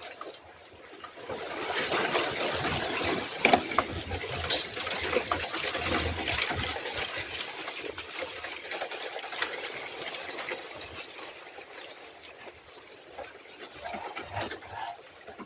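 A gust of wind rustling through forest leaves, swelling about a second and a half in and slowly dying down near the end, with crackling from the moving foliage.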